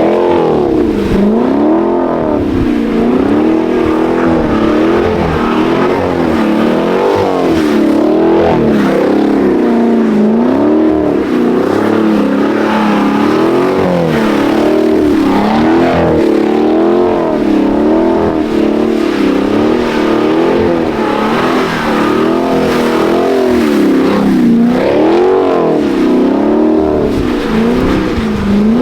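Chevrolet Camaro engine revved up and down over and over, its pitch rising and falling every second or two, as the car spins its wheels and slides in snow.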